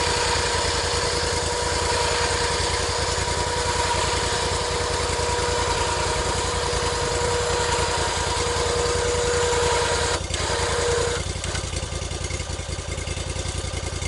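Portable sawmill's engine running steadily, with a steady high whine over it that stops about eleven seconds in.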